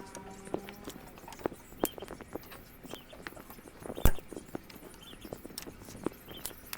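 Irregular light clicks and knocks, with one sharp, much louder knock about four seconds in.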